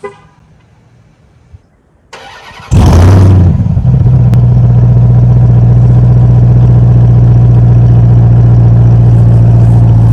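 Ram TRX's supercharged 6.2-litre V8 starting: a short crank about two seconds in, then the engine catches with a loud flare of revs just under three seconds in and settles into a steady, loud idle.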